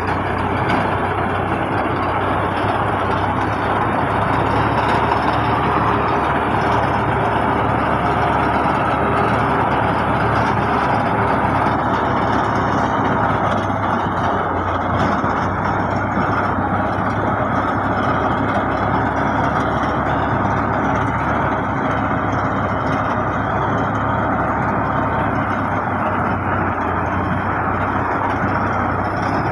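Fiat Al-Ghazi farm tractor's diesel engine running steadily with a low hum and a dense mechanical din, without letting up.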